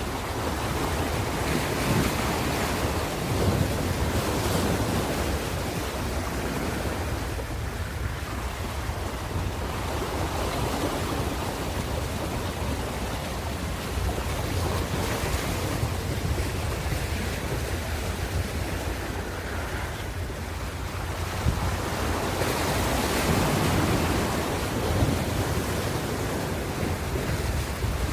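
Ocean surf: waves breaking and washing in over a steady low rumble, the sound swelling and fading as each set of waves comes in.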